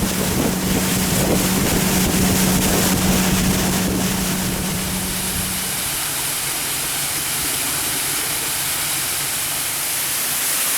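Motorboat engine running with a steady low hum over wind and water rush; the engine hum stops about six seconds in, leaving a steady rushing noise.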